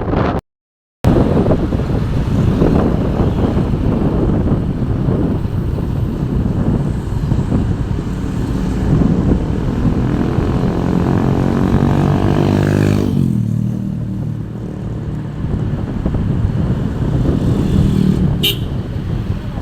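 Road-vehicle engine running with road noise, cut by a brief total dropout just after the start. Its pitch climbs steadily for about four seconds as it revs, then drops away sharply about 13 seconds in. There is a short sharp sound near the end.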